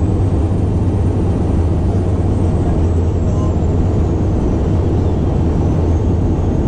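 E-One fire engine under way, heard from inside the cab: a loud, steady low rumble of engine and road noise, with a faint high whine that slowly rises and falls.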